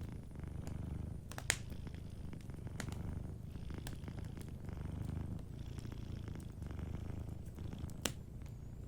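Domestic cat purring steadily, the low purr swelling and easing in slow cycles with its breathing, over a crackling wood fire with a few sharp pops, the loudest about a second and a half in and near the end.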